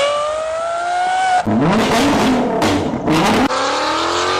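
High-performance sports car engines accelerating hard, their pitch climbing through the revs, in three clips cut abruptly together. The middle clip rises and falls in pitch over a rushing noise.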